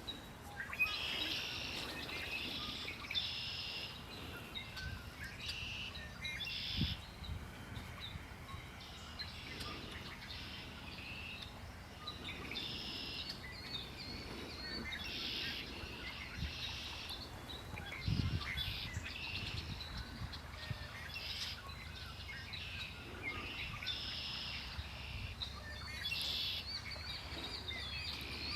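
Songbirds singing, short phrases repeated every second or two, over a steady low rumble.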